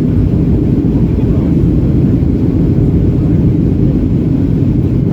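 Boeing 737-800 cabin noise in flight: the steady low rumble of the CFM56-7B engines and airflow over the fuselage, even and unchanging.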